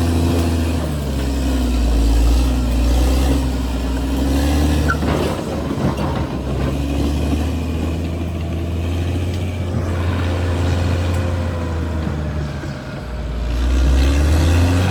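Caterpillar D6R XL bulldozer's diesel engine running steadily under load, with a few knocks about five to six seconds in. Near the end the engine note drops briefly and then rises again.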